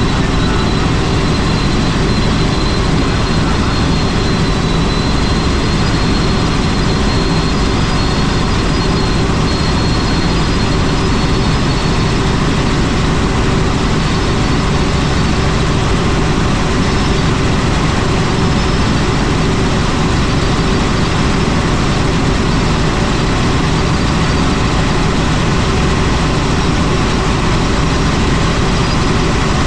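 Helicopter in flight: steady, loud engine and rotor noise, with a faint high turbine whine.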